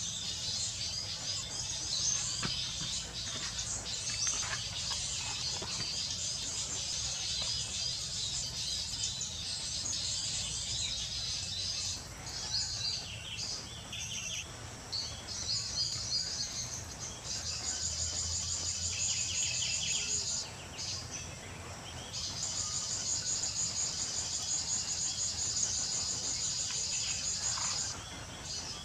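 High-pitched chorus of insects and small birds, dense chirping throughout. In the second half come long, fast pulsing trills lasting several seconds.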